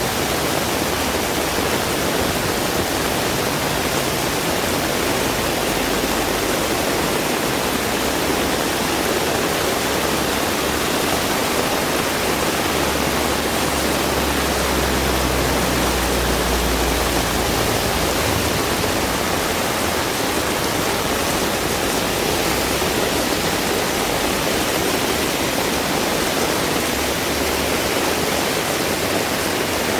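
Heavy rain falling steadily, a dense even hiss. A low rumble swells and fades about halfway through.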